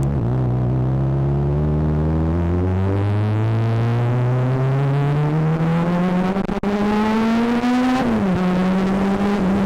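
Yamaha XJ6's inline-four engine pulling under acceleration, its revs climbing steadily for about eight seconds, then dropping sharply with a gear change and holding steady.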